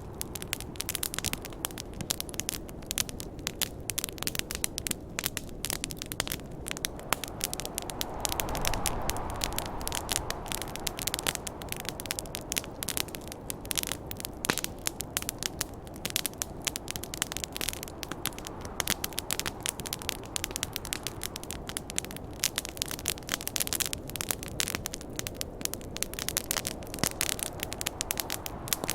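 Campfire crackling, dense sharp pops and snaps over a steady hiss, with wind gusting up about eight seconds in and dying away a few seconds later.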